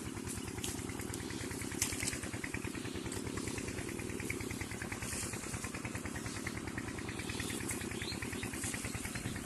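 10 HP diesel engine driving an irrigation water pump, running steadily with a fast, even firing beat.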